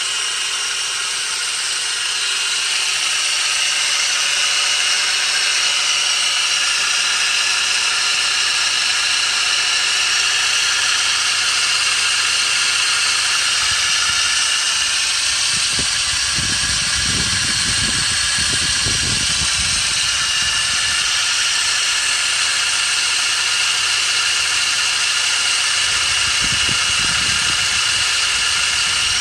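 Abnormal noise from a pulley on a running engine's belt drive: a steady high-pitched whir over the engine's idle. Low rumbling comes in about halfway through and again near the end.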